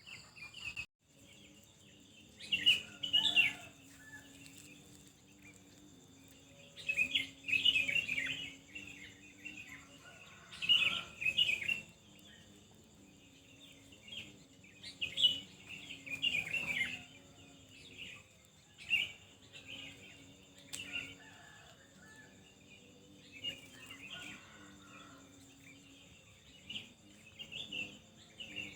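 Small birds chirping and twittering in short bursts every few seconds, over a faint steady background.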